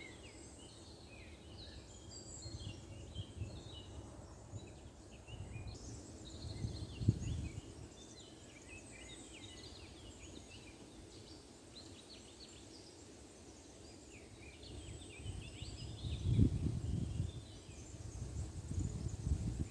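Many small birds chirping and twittering in quick, overlapping short notes. Low rumbles come in about seven seconds in and again near the end.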